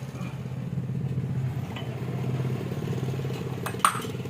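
An engine running steadily, with one sharp clank near the end.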